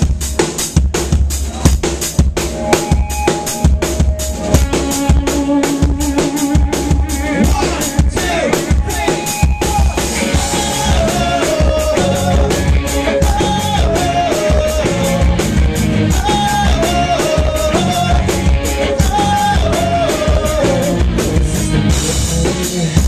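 Live pop-rock band playing a song's instrumental intro: a steady, driving drum-kit beat, joined by a melodic line stepping up and down from about five seconds in.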